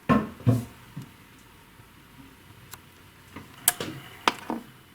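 A few sharp metallic clicks and knocks, as of tools and small parts handled on an engine head: two knocks at the start, then scattered clicks near the end.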